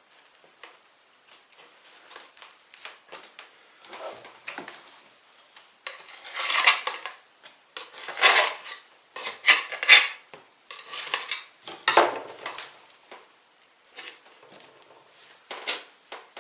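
Dishes and metal utensils clinking and scraping in irregular strokes. The scraping is loudest and busiest in the middle, with scattered clicks before and after.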